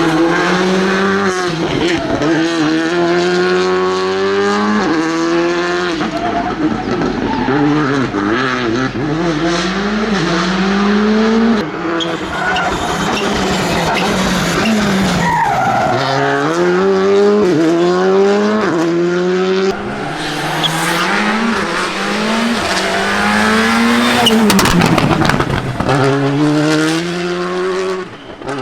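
Rally car engines driven at full throttle, revving up and dropping back repeatedly through gear changes, with tyres sliding. The sound cuts abruptly to another passing car about 12, 20 and 26 seconds in.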